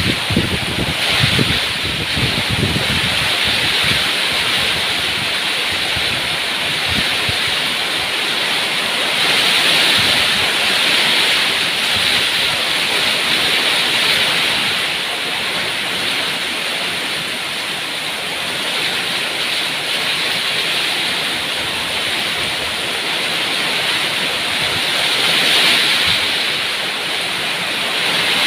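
Steady heavy rain, a dense, even hiss. In the first few seconds, low gusts buffet the microphone.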